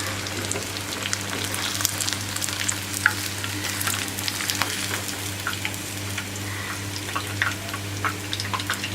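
Oil sizzling and crackling with scattered small pops around crumb-coated chicken chops deep-frying in a pan. A steady low hum runs underneath.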